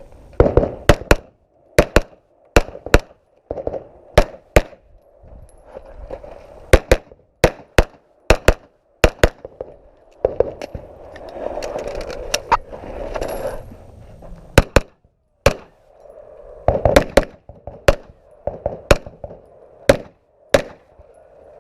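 Rifle shots fired in quick strings of two or three, with short pauses between the strings.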